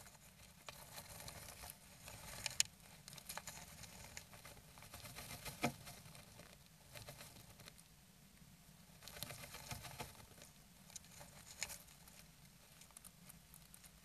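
Nesting songbird shifting on its nest, rustling and scratching the dry nesting material in irregular bursts with a few sharp clicks.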